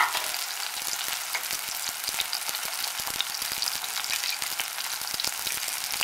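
Chopped green onions frying in olive oil in a stainless steel pot, giving a steady crackling sizzle.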